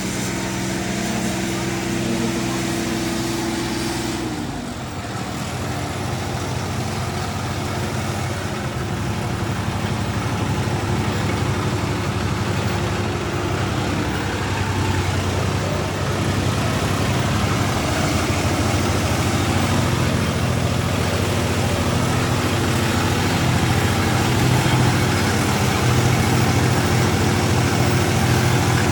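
Tractor diesel engines running with a steady drone. About four seconds in, one engine's pitch drops, and the engine note grows louder toward the end, with voices in the background.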